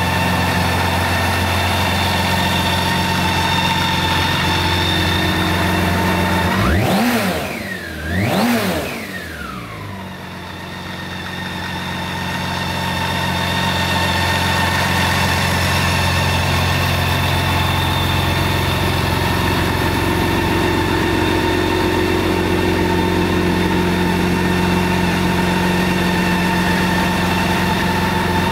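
BMW K1600GT's inline-six engine idling steadily, with the throttle blipped twice in quick succession about a third of the way in, the revs rising and falling each time before settling back to idle.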